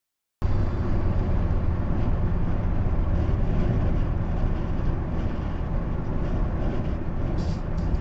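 A car driving along a highway: steady, low-heavy road and engine noise that cuts in abruptly just after the start.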